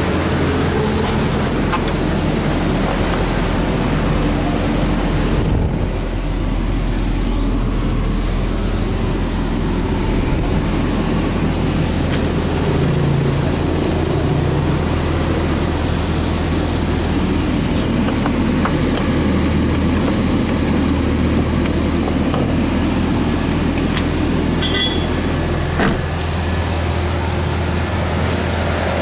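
Toyota Starlet's engine idling steadily, a low even hum, with a single short click near the end.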